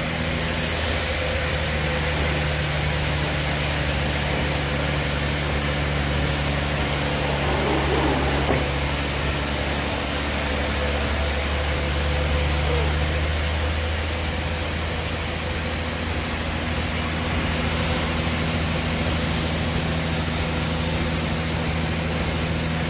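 Bandsaw sawmill machinery running steadily: a constant low drone with an even hiss, with no clear cut starting or stopping.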